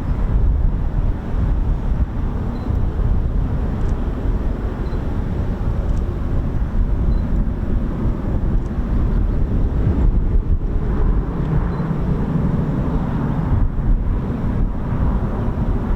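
Strong wind buffeting the microphone, a heavy low rumble with gusts.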